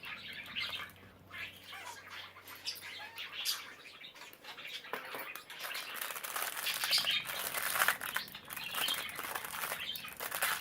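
Pet budgerigars chirping and chattering, with plastic packaging crinkling as a double-bagged toy is opened.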